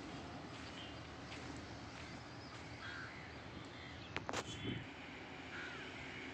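Faint outdoor background with a bird calling a few times in short harsh calls; the loudest call comes about four seconds in.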